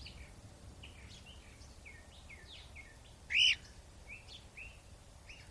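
A cockatiel calling: one loud call that rises and falls about three and a half seconds in, over quick, short bird chirps throughout.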